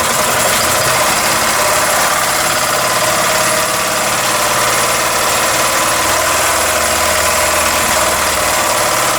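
Model V8 steam engine of the Mamod type running fast on compressed air, a dense rapid beat of exhaust puffs over a steady hiss, stopping suddenly at the very end.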